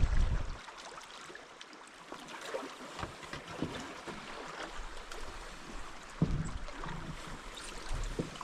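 Wind buffeting the microphone, dying away about half a second in, then water splashing and lapping around a paddled canoe. A sharper knock comes about six seconds in.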